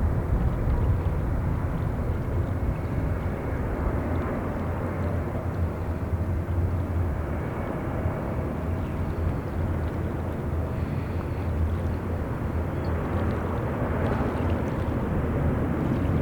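Airbus A350-900 jet on its landing approach, its Rolls-Royce Trent XWB engines a steady low rumble mixed with wind noise.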